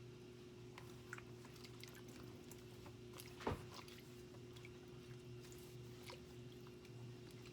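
Faint scattered small clicks and wet, squishy snaps of banana-stem pith as its fibrous strings are pulled out, with one sharper click about three and a half seconds in, over a steady low hum.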